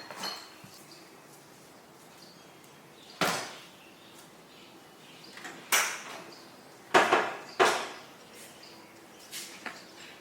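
Several sharp knocks and clatters of hard objects being handled or set down: four loud ones between about three and eight seconds in, then two lighter ones near the end, each ringing briefly.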